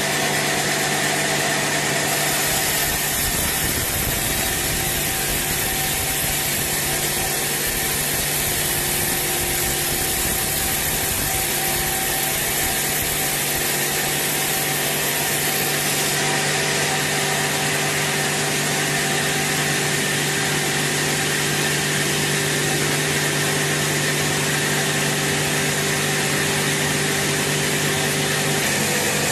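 Sawmill saw running steadily, a constant machine hum under a dense hiss with no break or change in level.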